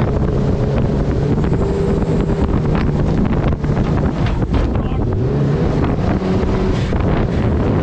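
Turbocharged Honda engine of a mini jet boat running steadily under way, its note shifting slightly in pitch, under heavy wind noise on the microphone.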